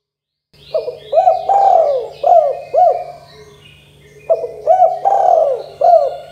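Spotted dove (tekukur) cooing: starting about half a second in, two phrases of its song, each made of several short clipped coos with one longer drawn-out note in the middle. Small birds chirp faintly in the background.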